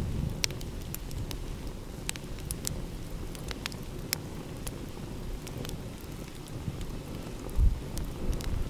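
Wood campfire crackling, with irregular sharp pops, over a steady low rumble of sea waves. A louder low thump comes near the end.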